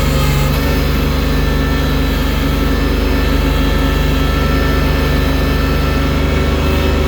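Heavy engine of a snow-clearing machine fitted with a loader bucket, running steadily under load with a low, even hum.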